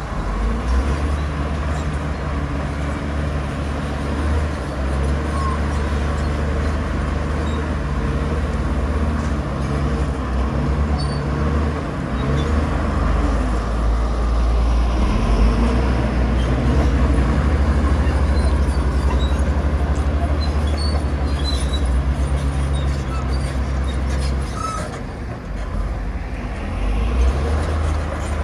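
Heavy diesel engine of a crawler bulldozer running under load, a deep steady drone that swells and eases as it pushes soil. Near the end it eases briefly, then picks up again.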